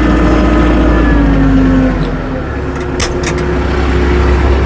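Tractor engine running, its note dropping about a second in and then holding steady, with a few sharp clicks between about two and three and a half seconds in.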